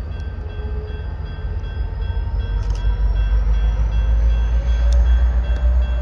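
Low rumble of a Norfolk Southern diesel freight train running away along the track, growing louder toward the end, with faint steady high tones over it.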